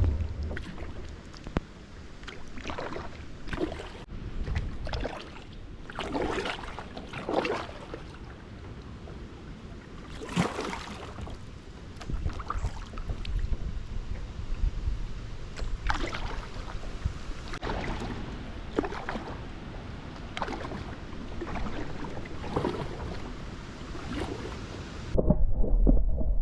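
Kayak paddle strokes splashing in creek water, a dip and pull every second or two, over a steady low wind rumble on the microphone. Near the end the sound changes abruptly to a loud low thudding rumble.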